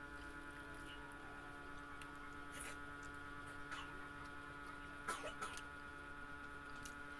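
Eating sounds: closed-mouth chewing with a few short, sharp mouth clicks and smacks, over a steady background hum.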